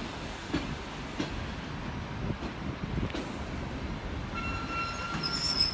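Passenger train coaches rolling slowly past on the rails: a steady rumble with the odd clack of wheels over rail joints. From about four and a half seconds in, a high thin wheel squeal sets in.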